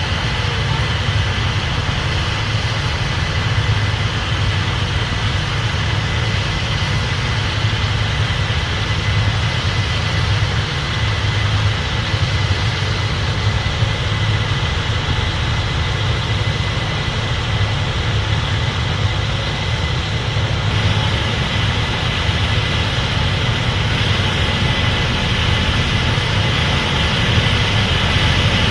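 Case IH 8250 Axial-Flow combine running steadily while harvesting corn: a constant low engine drone with a thin steady whine above it.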